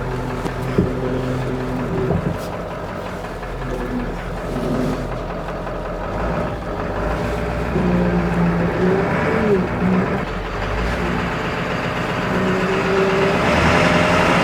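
1995 Ford F350's 7.3 Powerstroke turbo-diesel V8 running at low speed while the truck is manoeuvred in reverse, its note rising and falling several times with the throttle.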